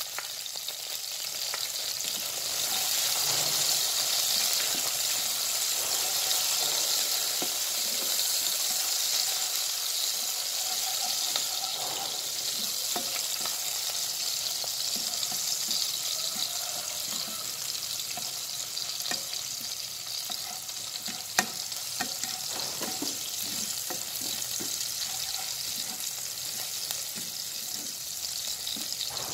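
Sliced shallots, garlic and chilli sizzling in hot oil in a pan, stirred now and then, with scattered scrapes and taps on the pan. One sharp tap, about two-thirds of the way through, is the loudest sound. The spice base is frying until fragrant.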